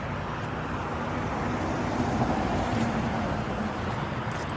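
Semi truck's engine running with a steady low drone and road or wind noise, as the tractor moves on freshly fitted snow socks.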